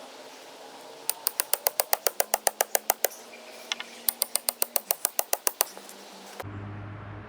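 Rapid mechanical hammering in two bursts, about ten strikes a second, the first about two seconds long and the second about a second and a half; near the end the sound cuts to a steady low engine hum.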